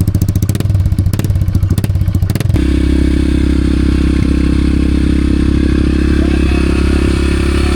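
Mini bike engine running close by. For about two and a half seconds it fires fast with a rattle at higher revs, then drops to a steady, lower idle.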